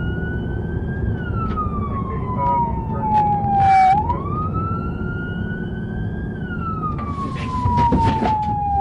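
Police car siren wailing in slow cycles, rising quickly and then falling gradually over several seconds, twice, over a steady low rumble.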